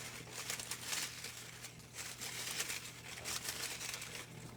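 Slips of paper rustling and crinkling as a name is drawn from a hat and unfolded, in uneven crackly bursts.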